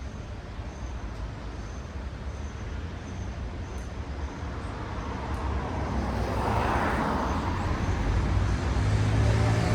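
Road traffic: a steady low rumble of vehicles, then a car passing with tyre noise swelling and fading about two-thirds of the way in, and a heavier vehicle's deep engine hum growing louder near the end.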